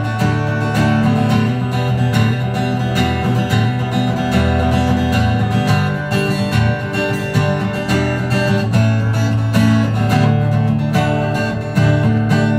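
Instrumental break in a live country song: acoustic guitar strummed steadily.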